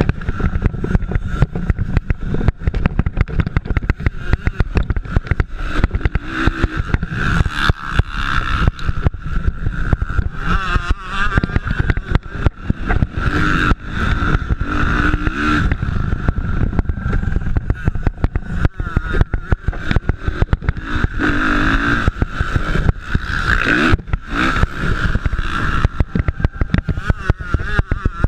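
Motocross dirt bikes racing, their engines revving up and falling back over and over, over a constant low rumble with crackling on the microphone.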